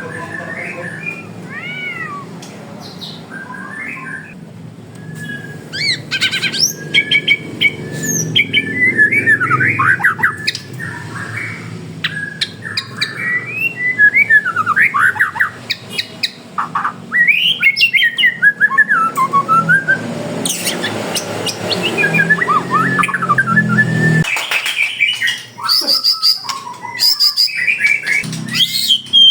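Several caged songbirds singing and calling at once, a busy mix of whistles, chirps, trills and squawks of varied pitch, over a low background rumble that stops near the end.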